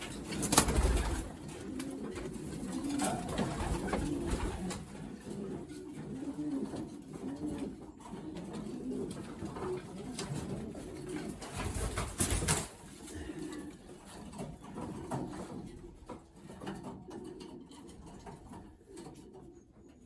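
Racing pigeons cooing continually, with two louder thumps, one about half a second in and one around twelve seconds in.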